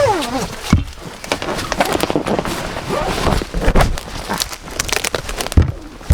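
Close rustling, crinkling and knocking of hunters' clothing and gear as they move right after the shot, with one sharp knock about five and a half seconds in.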